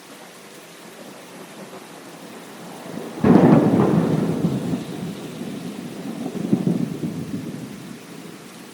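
Thunderstorm: steady rain, then a sudden thunderclap about three seconds in that rumbles on, swells again a few seconds later and slowly dies away.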